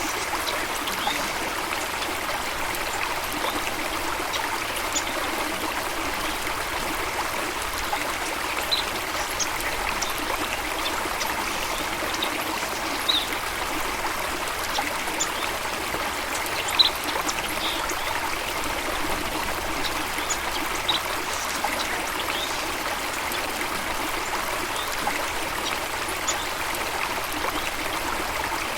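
Running water of a stream or small waterfall, a steady even rush, with scattered brief high-pitched plinks through it.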